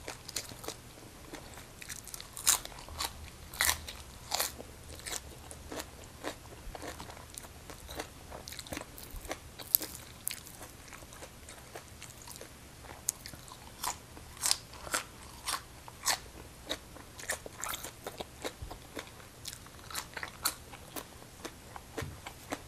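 Close-miked chewing of crisp raw greens such as choy sum, with irregular sharp crunches as the stalks and leaves are bitten and chewed.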